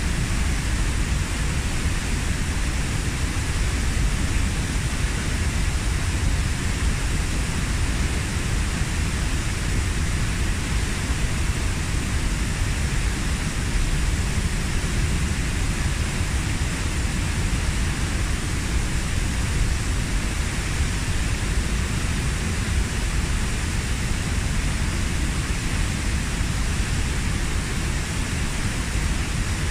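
Waterfall about 15 m high, its water pouring and crashing into the plunge pool as a steady, unbroken rush heaviest in the low end.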